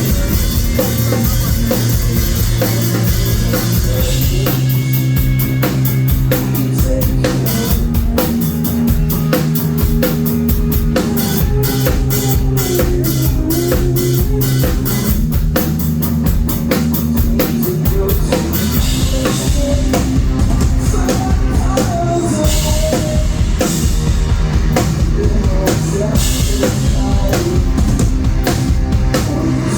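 A live rock band playing loudly, with a drum kit, bass and electric guitar, picked up by a phone in the crowd. The drumming grows busier about two-thirds of the way in.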